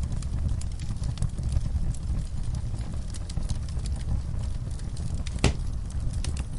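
Wood fire burning in a fireplace: a steady low rumble with frequent small crackles, and one louder pop about five and a half seconds in.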